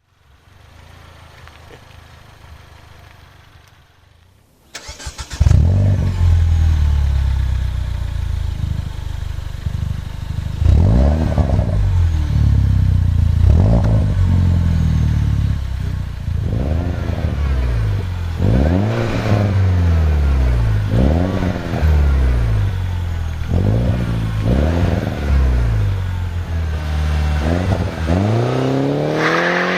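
Mini Cooper S (R56) with a Scorpion aftermarket exhaust: the engine starts suddenly about five seconds in, settles to idle, then is blipped in a run of short revs, each rising and falling back, with a longer rising rev near the end.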